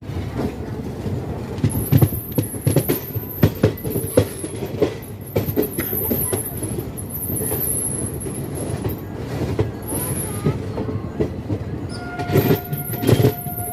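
Passenger train wheels clattering over rail joints, heard from on board a moving coach, with irregular knocks throughout. A steady high tone sounds for the last second or two.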